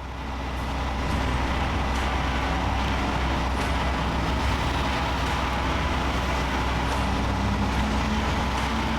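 A heavy truck's engine running steadily, with a faint steady whine above it.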